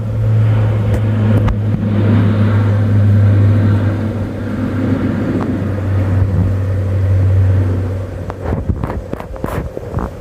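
Military aircraft flying over, a loud steady low drone that fades about eight seconds in. A few sharp knocks follow near the end.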